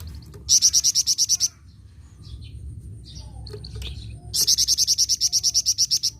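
Songbird of the kind kept in Indonesia as 'flamboyan', singing hard: two loud, fast, high-pitched trills of evenly repeated notes, the first short, the second starting a little past the middle and lasting nearly two seconds, with fainter chirps between.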